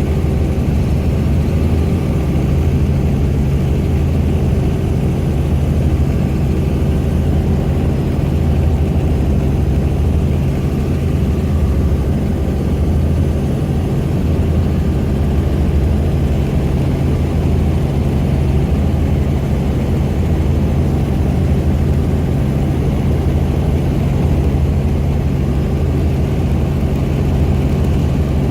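Helicopter engine and rotor droning steadily in flight, heard from inside the cabin: a loud, even low drone whose pitch does not change.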